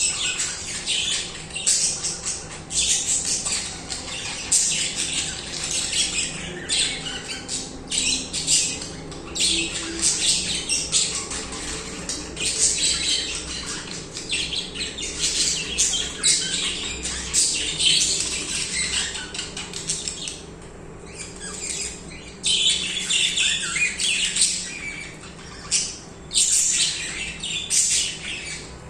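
A group of budgerigars chattering and chirping almost without pause, with sharp squawks mixed in and a short lull about two-thirds of the way through.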